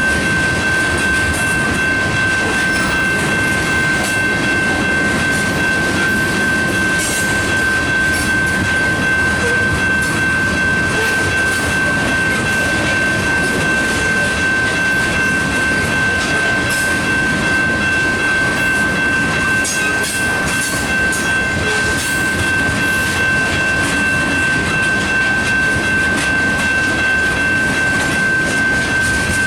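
Freight train of ethanol tank cars rolling past with a steady, loud rumble and clatter, a constant high-pitched whine running through it, and scattered sharp clicks and squeaks from the wheels.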